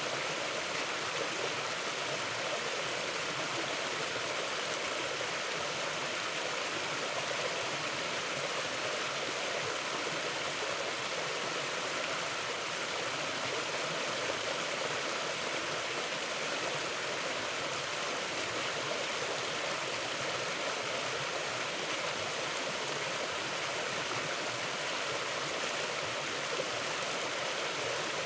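Mountain river flowing, a steady, even rush of water that holds unchanged throughout.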